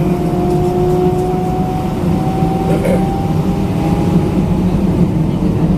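Cabin noise inside an Airbus A319-112 taxiing on the ground: a steady, loud low rumble. Over it runs the hum of its CFM56 engines, whose pitch creeps slowly upward.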